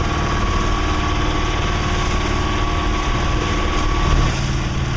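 Auxiliary engine of a Contest 29 sailboat running steadily, motoring the boat into the wind and waves. Its note shifts slightly about four seconds in.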